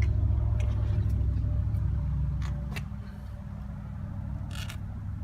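2013 Chevrolet Avalanche's 5.3-litre V8 idling steadily, a low hum heard inside the cab, easing slightly in level about three seconds in, with a few light clicks.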